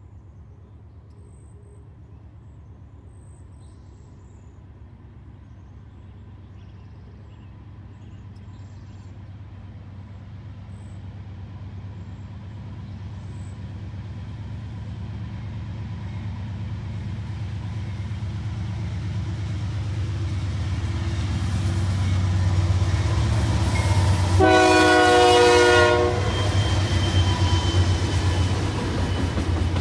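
BNSF freight train led by three GE Dash 9 diesel locomotives approaching and passing: a low diesel rumble that builds steadily louder, one horn blast of about a second and a half, and then the loud passing rumble of the locomotives and cars on the rails.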